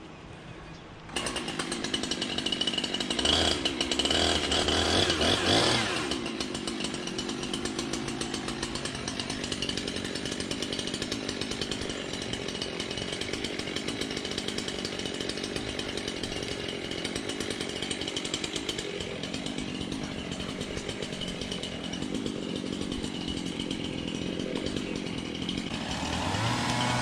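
Chainsaw starting up suddenly about a second in, running loud for about five seconds, then continuing steadily at a lower level before getting louder again near the end.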